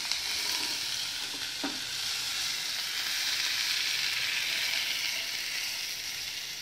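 Vegetables sizzling steadily in hot oil in a kadai as they are scooped out with a plastic spatula, with a couple of light taps.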